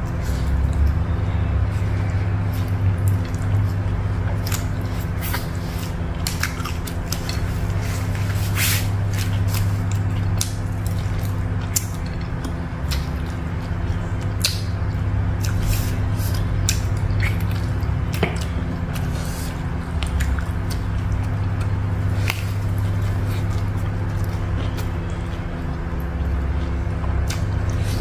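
A person chewing food close to a clip-on microphone: wet, squishy mouth sounds with scattered sharp crunches, over a steady low hum.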